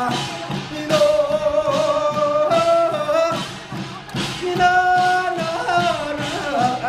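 Korean traditional ritual music: a high melody of long held notes that slide between pitches, over repeated drum and cymbal strokes.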